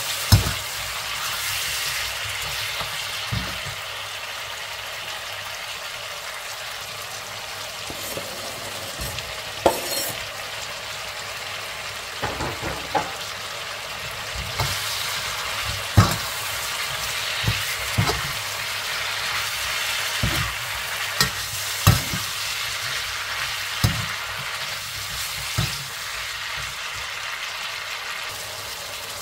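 Lamb pieces sizzling as they fry in oil in a non-stick wok, with a steady hiss throughout. A metal slotted spatula stirs them, knocking and scraping against the pan in a dozen or so sharp clacks, mostly in the second half.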